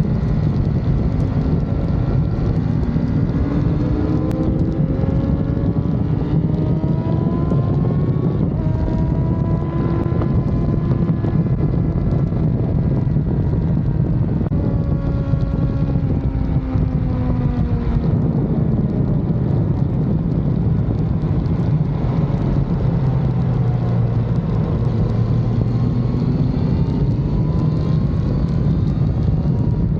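BMW S1000RR inline-four engine running at speed, its pitch rising over a few seconds as it accelerates and dropping again as it slows, several times. Heavy wind rush on the microphone underneath.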